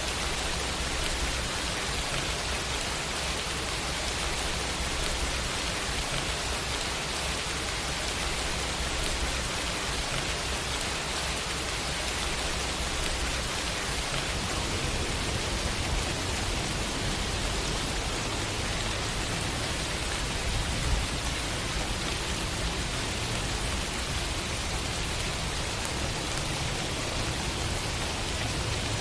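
Steady rain falling on city surfaces: an even hiss with a low rumble underneath.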